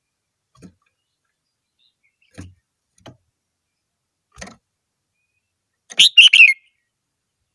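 Red-whiskered bulbul singing a short, loud phrase of several quick chirped notes near the end, after a few faint soft knocks.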